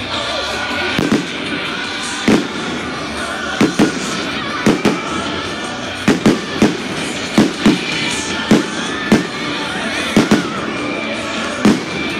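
Aerial firework shells bursting in a rapid volley: about eighteen sharp bangs, many in quick pairs, over music playing underneath.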